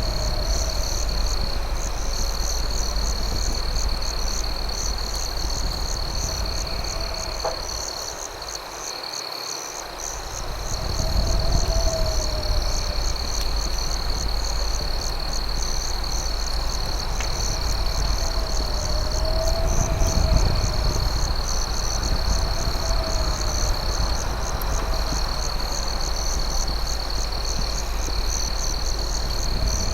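Crickets chirping in a steady, high, pulsing trill. A lower call rises and falls every few seconds, and there are a couple of faint campfire crackles over a low rumble.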